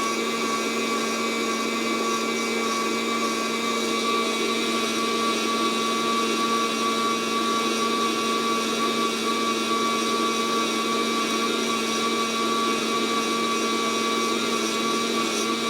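Fresh Roast SR 800 hot-air coffee roaster running, its fan giving a steady whir with a constant hum. No cracking pops come from the beans: they have not reached first crack.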